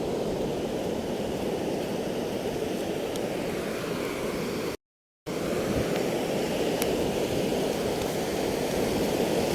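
Steady rushing of sea surf and wind, broken by a half-second gap of silence about five seconds in.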